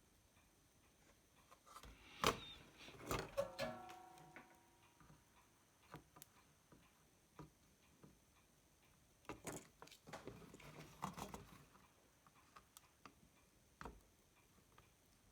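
Scattered small clicks and knocks of hand tools being handled on a workbench, with one brief metallic ring about three seconds in.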